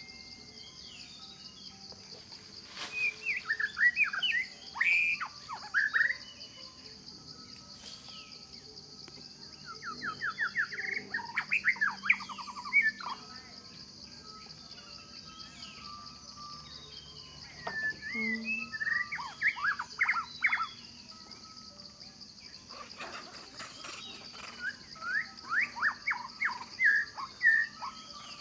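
A songbird singing four bouts of quick, rising and falling chirps, each lasting a few seconds, with pauses between, over a steady high-pitched insect drone.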